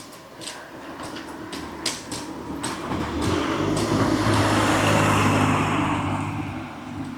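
A motor vehicle drives past, its engine and tyre noise rising over a couple of seconds, loudest around the middle and fading near the end. Footsteps at walking pace click along under it.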